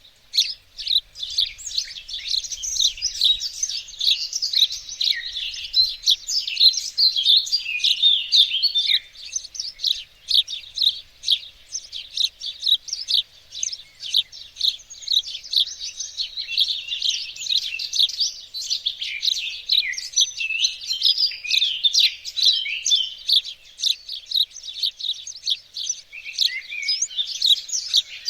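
Several small songbirds singing and chirping at once, a dense chorus of quick high twittering phrases with no pause.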